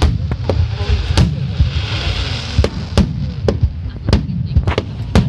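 Aerial fireworks shells bursting in quick, irregular succession, several sharp bangs a second over a continuous low rumble.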